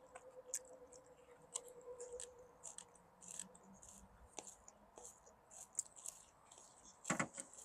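Quiet eating at a table: scattered light clicks and ticks of chopsticks, dishes and chewing, with a short louder sound about seven seconds in.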